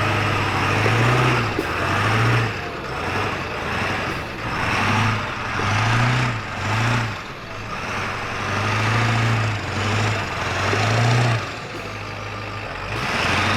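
Off-road 4x4's engine revving in repeated short surges as it crawls over rocks, over a steady rushing noise.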